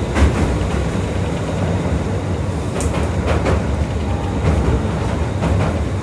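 Electric commuter train running along the Tokyu Toyoko Line, heard from inside the car: a steady low rumble, with wheels clicking over rail joints at uneven intervals of about a second.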